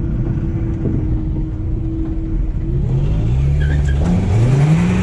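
Car engine running steadily, then accelerating about three seconds in: the revs climb, drop at a gear change, and climb again before holding steady.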